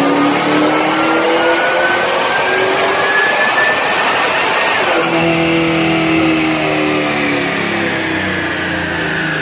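Supercharged 6.2-litre V8 of a Gen V Camaro SS running a wide-open-throttle pull on a chassis dyno, rpm climbing steadily. About four and a half seconds in the throttle is lifted and the pitch drops sharply, then the engine winds down slowly as the rollers coast.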